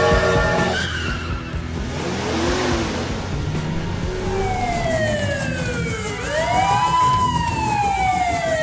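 A wailing police siren sound effect. From about halfway its pitch slides down, sweeps up again and falls once more, over background music.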